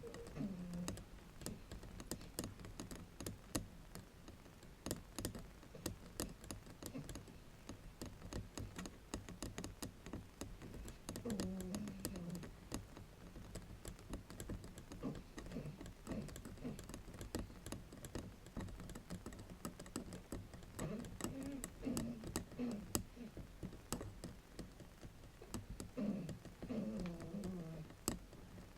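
Fingers tapping and scratching on a bamboo mat: a fast, uneven run of small wooden clicks and scrapes like typing. A few brief low pitched glides rise above the clicks, near the start, about 11 seconds in, and again after 20 seconds.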